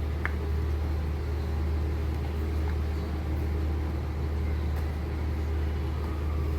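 Electric kitchen blender running steadily with a low motor hum, puréeing chopped tomatoes, green peppers, onions, ginger and garlic.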